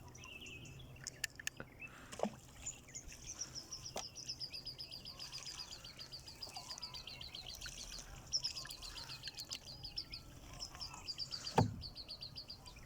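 Birds calling in a fast, high twittering chatter that keeps going, with a few faint knocks. A dull thump sounds near the end.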